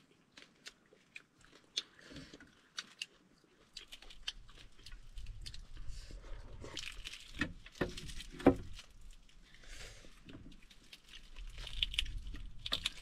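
Close-miked chewing and biting of fried meat, mukbang-style. Sharp, scattered clicks of biting and crunching come first, then steadier, denser chewing from about four seconds in.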